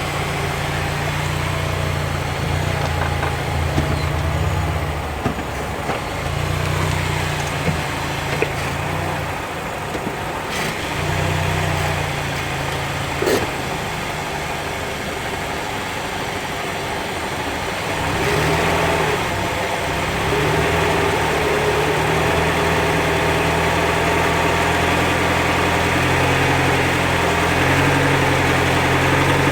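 Car engine running in Drive with throttle applied, putting the drivetrain under load: a low engine hum that comes and goes and shifts in pitch, growing louder about eighteen seconds in, with one sharp click around thirteen seconds. It is an unusual noise under load that the owner cannot identify.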